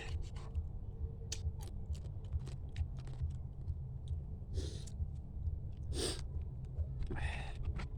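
Eating crab by hand: many small clicks and cracks from the shell, with three longer noisy bursts of sucking and chewing in the second half. A steady low hum runs underneath.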